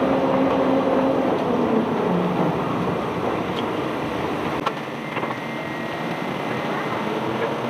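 Engine of the heavy unloading machinery running steadily, its tone dropping to a lower pitch about two seconds in. A single sharp click a little before five seconds.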